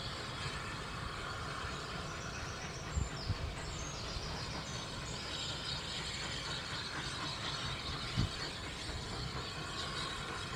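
Distant narrow-gauge train: a low, steady rumble with a few soft thumps and faint high chirping over it.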